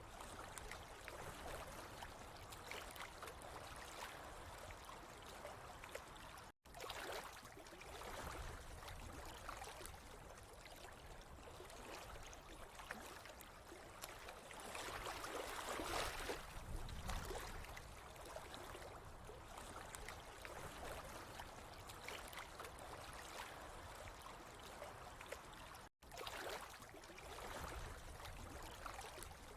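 Steady trickling, gurgling water, louder for a couple of seconds about halfway, cutting out for an instant twice.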